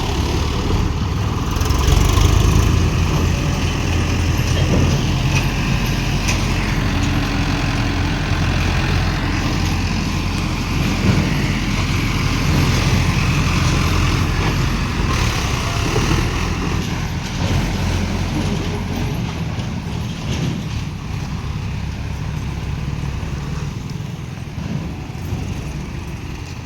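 Mahindra Arjun 555 tractor's diesel engine running steadily, its low drone easing off somewhat near the end.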